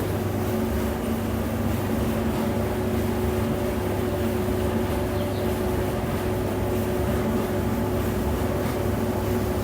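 Whirlpool 15 kg vented tumble dryer running, drum turning, with a steady low hum and rumble. The drum rollers are newly replaced, and the sound is its normal running noise with no scraping or squealing.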